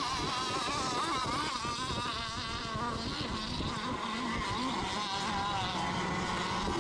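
Radio-controlled racing boats running at speed out on the course, their small engines making a high whine that wavers up and down in pitch as several boats run at once.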